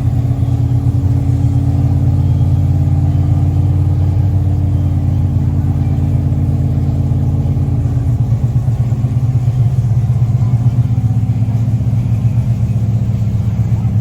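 A vehicle engine running steadily at a constant speed, a loud low drone with no revving.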